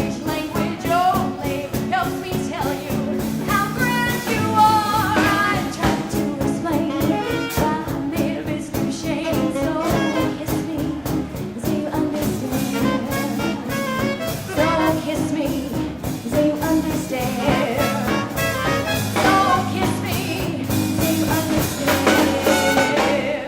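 Live swing band playing a 1940s-style song with a female vocalist singing; the music stops abruptly right at the end.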